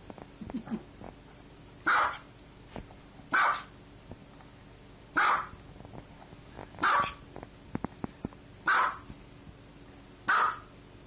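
A dog barking single, short barks, six in all, spaced about one and a half to two seconds apart.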